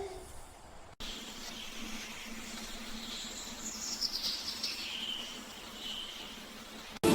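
Natural outdoor ambience: a steady hiss with faint, high bird chirps, after a drawn-out call dies away at the very start.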